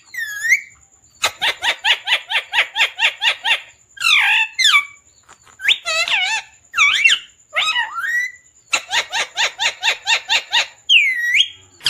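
Parrot chirping and calling: two runs of rapid repeated chirps, about six a second, between varied whistles and squawky calls that slide up and down in pitch.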